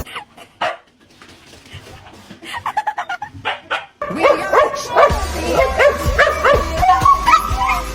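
A dog barking and yipping in short repeated bursts, with background music with a steady bass coming in about halfway through.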